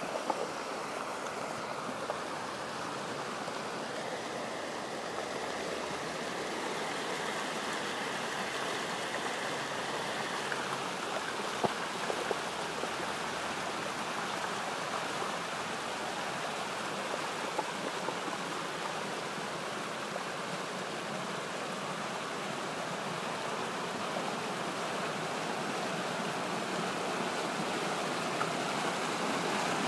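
Storm-swollen stream in flood, its water rushing steadily, getting a little louder near the end.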